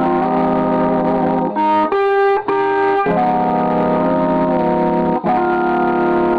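Fender Bassman tube amp head, just repaired, playing an instrument through it as held, sustained chords that change several times, with a brief break about five seconds in.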